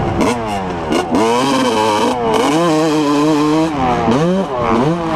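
Pit bike engine revving up and dropping back several times as the throttle is worked and opened and closed between shifts, holding a steady note for about a second in the middle.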